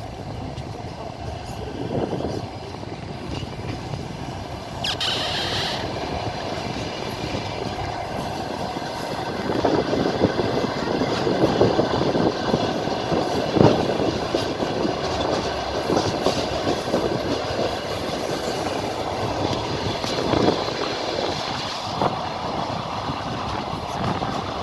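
A train's wheels clattering over rail joints under a steady running rumble, with irregular knocks, several close together about ten to fourteen seconds in. A brief high wheel squeal comes about five seconds in.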